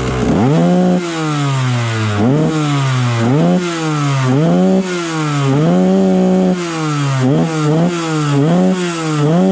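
Dirt bike engine revving in quick, repeated throttle blips while riding: the pitch rises sharply and falls back about nine times.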